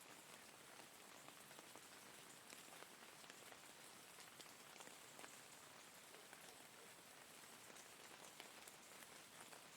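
Faint, steady rain falling: an even hiss with scattered individual drop ticks.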